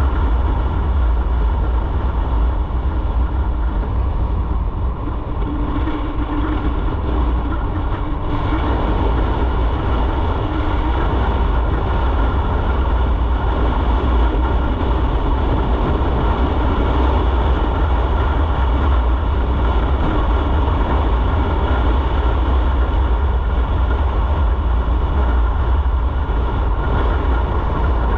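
Motorcycle underway: steady engine drone mixed with wind rush and heavy low rumble on the microphone, with no break in it.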